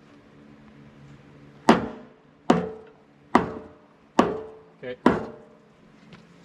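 Hammer blows on metal: five strikes a little under a second apart, each ringing briefly after the hit.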